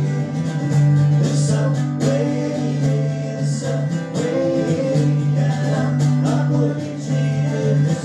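Live acoustic folk trio playing: strummed guitar with singing, in an old-time Appalachian style.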